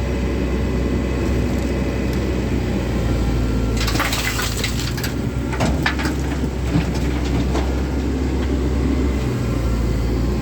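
Komatsu excavator's diesel engine running steadily, with a loud crunching and clattering of soil and rocks from the bucket for about three and a half seconds, starting about four seconds in.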